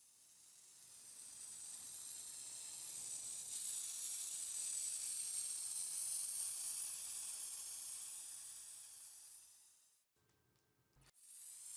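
A steady, high-pitched spraying hiss that swells in over the first few seconds, holds, then fades and cuts off about ten seconds in, starting again after a short silence near the end.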